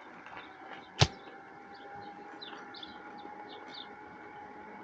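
Faint birds chirping over a quiet outdoor background, with one sharp click about a second in and a faint steady tone underneath.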